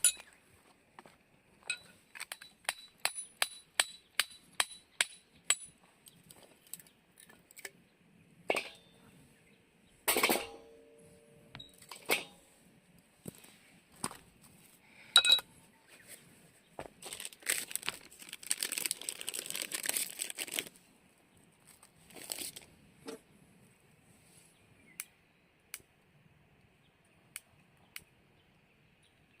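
A run of light metallic taps, about two a second, then a ringing clink and a few scattered knocks. After that comes a rustling, crinkling stretch of a few seconds, the sounds of camp gear being handled.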